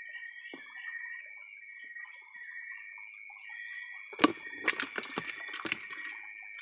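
Steady high trilling of night insects, crickets among them. From about four seconds in, a run of sharp knocks and taps, the first the loudest, as the catch is handled over a plastic basin.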